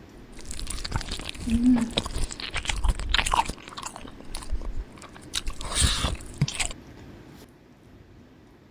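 Close-miked eating sounds of biting into and chewing fried fish roe (bihud): crunchy crackles, smacks and wet mouth noises in irregular bursts. The sound drops much quieter after about seven seconds.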